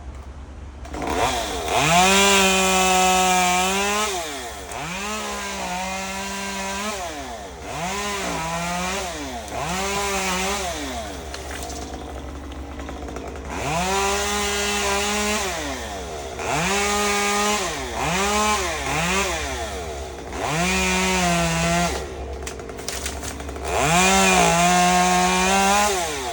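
Chainsaw revving up to full throttle and cutting in about ten bursts, some around three seconds long and others short blips of a second or less. The pitch rises, holds high, then falls back, and the saw runs lower between bursts.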